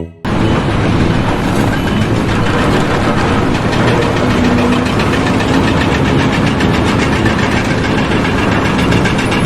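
A loud machine engine running steadily with a fast, even pulsing, starting and stopping abruptly.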